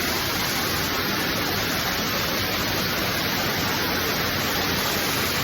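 Cave waterfalls: falling water rushing in a steady, even hiss.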